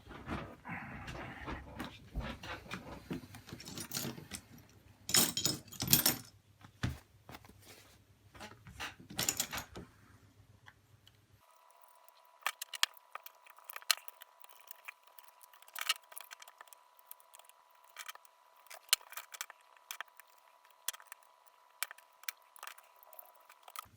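Small clicks and clatter of tools and parts being handled on a repair bench, with a few louder knocks in the first half. From about halfway a faint steady high tone sits under the clicks.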